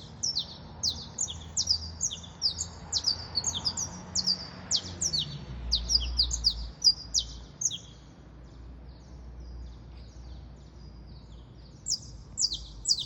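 A songbird singing a fast run of sharp, high, downward-sliding chirps, which thin out for a few seconds in the middle and pick up again near the end.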